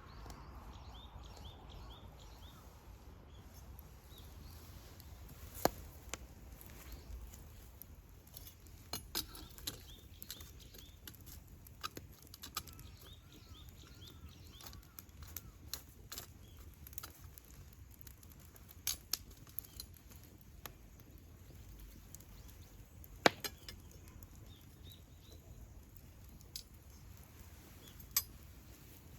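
Wood campfire crackling, with scattered sharp pops over a low steady rumble and a few louder snaps.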